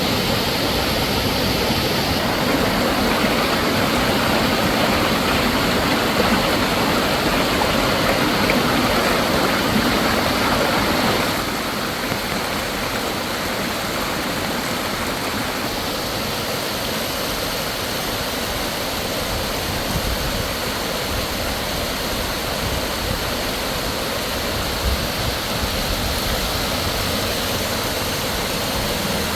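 Heavy storm rain pouring, a steady rushing noise of falling and running water; it drops a little in level about a third of the way through.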